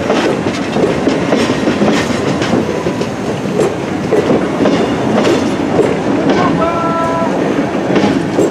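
Old passenger coaches rolling past at close range as the train pulls out, their wheels clicking over the rail joints. A short horn tone sounds about two-thirds of the way through.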